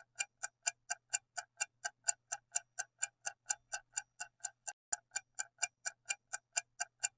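Clock-ticking sound effect of a quiz countdown timer: short, even ticks at about four a second.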